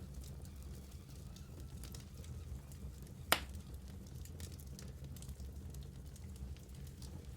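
Wood fire burning in a fireplace, with a low steady rumble and scattered small crackles, and one loud sharp pop a little under halfway through.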